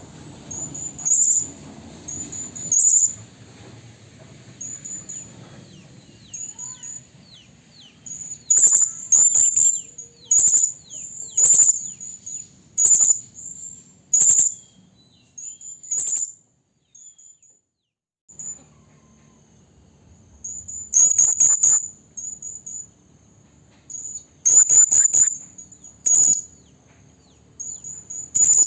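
Serindit (hanging parrot) calling with high, shrill chirps, repeated over and over in quick runs of several notes with short pauses between, and a brief lull past the middle. It is the call of a female serindit calling a male, used as a lure for trapping.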